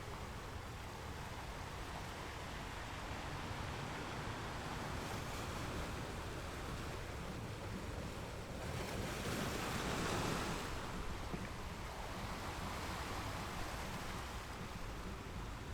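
Ocean waves breaking on rocks, a continuous wash of surf with one wave swelling to a peak about two-thirds of the way through and then receding.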